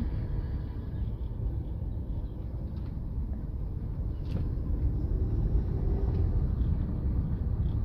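Vehicle driving along a road, a steady low rumble of engine and road noise, with one brief click about four seconds in.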